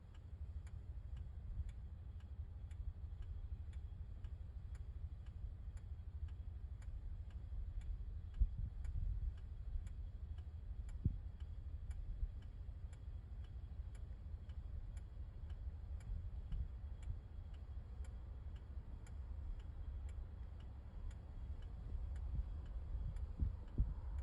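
Car's turn-signal or hazard indicator ticking steadily, about two clicks a second, over the low rumble of the car's engine and road noise, with a few dull thumps.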